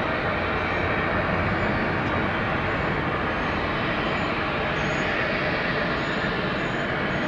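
Steady jet noise from a departing Embraer E190's two GE CF34-10E turbofans, an even rumble that holds level throughout.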